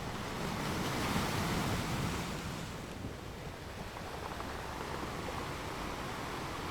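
Ocean waves breaking and washing up on a beach, one wave swelling and falling away about a second in, then a steady wash of surf.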